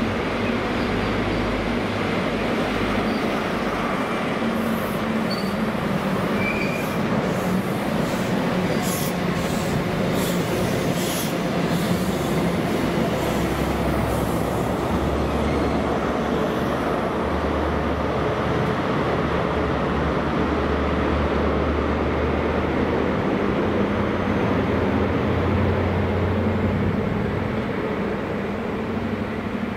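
High Speed Train with Class 43 diesel power cars (Network Rail's New Measurement Train) approaching and running through: a steady engine drone under the rush of the coaches on the rails, with a stretch of sharp wheel-on-rail noise about five to eleven seconds in.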